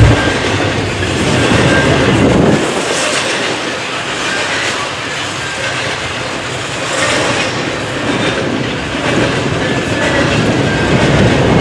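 CN double-stack intermodal container train rolling past at a level crossing, its cars and wheels making a steady, loud rolling noise. The deep low rumble drops away for several seconds in the middle and builds back near the end.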